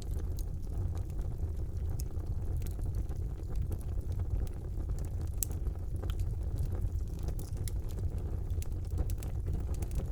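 Wood fire burning in a fireplace: a steady low rumble of the flames with scattered sharp crackles and pops, one of the loudest about halfway through.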